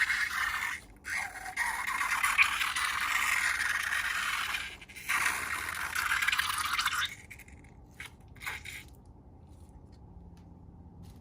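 Scraping while slime is being worked, in three long stretches broken by short gaps about a second in and about five seconds in. It stops about seven seconds in, leaving a few light clicks.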